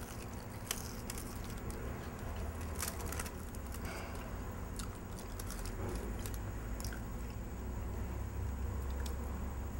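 People biting and chewing fried chicken wings, with scattered light crunches and clicks. A steady low background hum runs underneath.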